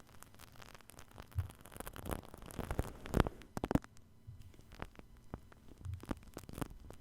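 Shaving cream being worked against a binaural microphone's ear: a run of small wet crackling and popping clicks, thickest and loudest about three seconds in.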